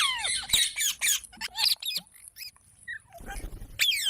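Parrot calling: a call sliding steeply down in pitch at the start, a quick run of short squawks and chirps, a brief lull, then another burst of calls near the end.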